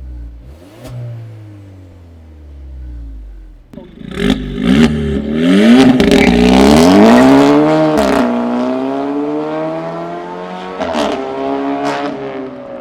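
Audi A3 engine through a titanium RES valved cat-back exhaust, revving. A few lighter blips come first. About four seconds in it turns much louder and climbs in pitch, holds high with a brief dip, then slowly eases off, with a few sharp cracks from the exhaust along the way.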